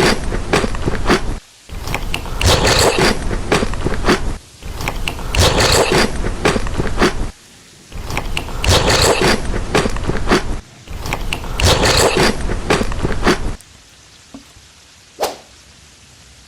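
Close-miked crunching as crispy food is bitten and chewed, in long crunchy stretches broken by short pauses, stopping about three seconds before the end; a single click follows shortly after.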